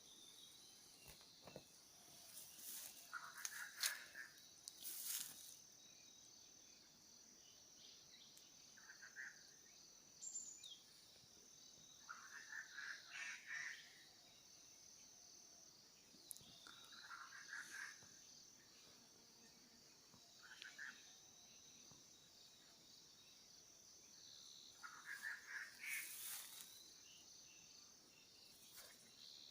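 Forest ambience: a steady high-pitched insect drone throughout, with short bursts of bird chirps recurring every few seconds.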